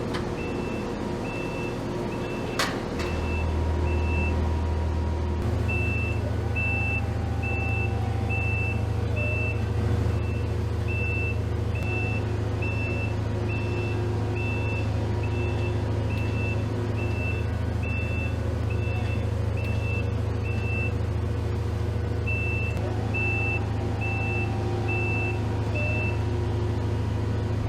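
A heavy vehicle's diesel engine running with a warning beeper sounding about twice a second and pausing twice. The engine gets louder about three seconds in, and there is one sharp click just before that.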